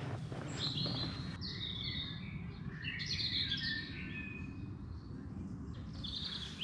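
Small songbirds singing and chirping in short, repeated phrases, over a low, steady background rumble.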